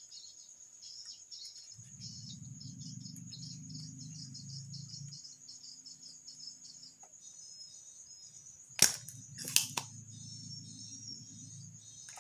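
Crickets chirp steadily throughout. A low buzz comes and goes twice. Near the end come two sharp snaps, typical of a spring-loaded solder sucker being fired while relays are desoldered from a circuit board.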